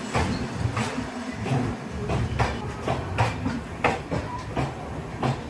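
Train coaches rolling out of a station at low speed: a steady rumble with wheels knocking over rail joints in a clickety-clack, about one to two knocks a second.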